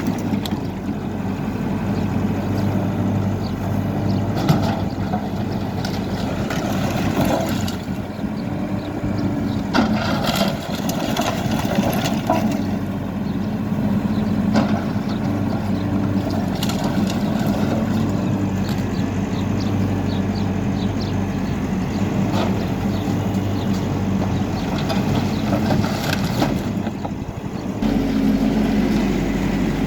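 HIDROMEK K4 Alpha backhoe loader's diesel engine running steadily under work, with scattered knocks and crashes of demolition debris. The engine note steps up near the end.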